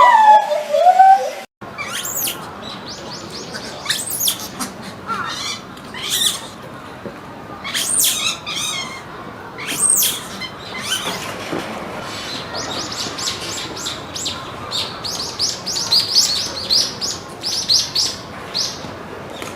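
Small monkeys calling: after a lower-pitched call ends with a cut about a second and a half in, a series of sharp, high-pitched chirps and squeaks follows, turning into rapid runs of twittering chirps in the last few seconds.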